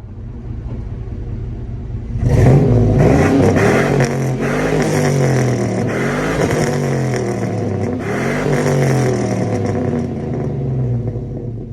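2006 GMC Sierra's 6.0-litre LQ4 V8 exhaust, through a cat delete and a Flowmaster 40 Series muffler, idling and then revved several times, the pitch rising and falling with each rev before it settles back toward idle near the end.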